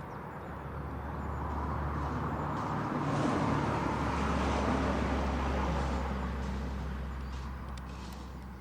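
A road vehicle driving past: a rushing noise of tyres and engine that builds over a few seconds, peaks in the middle and fades away, over a steady low rumble.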